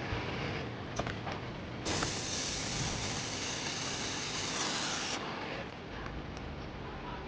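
A steady spraying hiss lasting about three seconds, starting about two seconds in and cutting off sharply, over a steady background noise with a few faint clicks.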